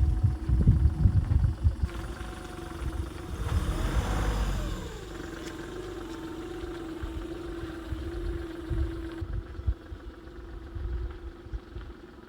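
Car engine running. Its pitch falls about four seconds in, then it settles into a steady hum, with low rumble throughout.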